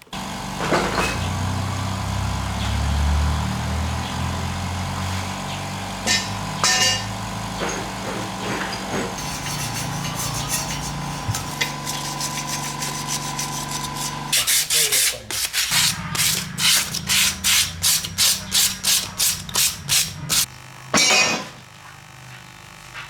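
A motorbike engine running steadily. It then gives way to a quick run of short, loud, sharp bursts, about three a second, for several seconds.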